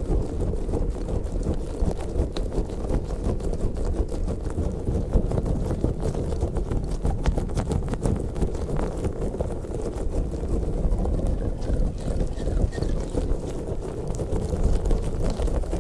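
Close-miked squeezing and kneading of a soft orange squishy slug toy: continuous squishing with many small sticky clicks.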